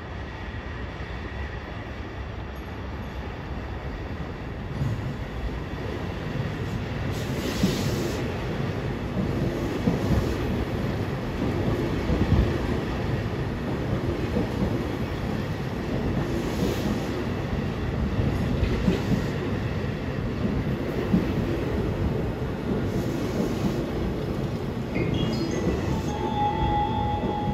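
E233-7000 series electric train pulling in alongside the platform and slowing to a stop. Its wheels rumble steadily, with clacks over the rail joints every few seconds, and a high brake squeal comes near the end as it stops.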